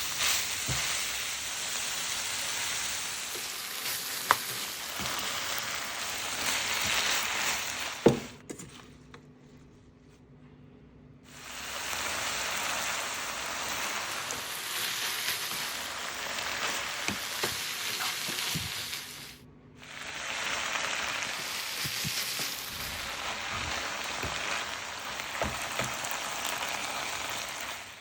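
Minced chicken stir-frying in a pan, sizzling steadily while a spatula stirs and scrapes with small clicks and knocks. There is one loud knock about eight seconds in, and the sizzle drops away twice for a moment.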